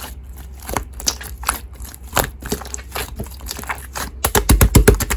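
Slime being squeezed and pressed by hand, making irregular sticky clicks and crackling pops, with a quick run of louder pops near the end.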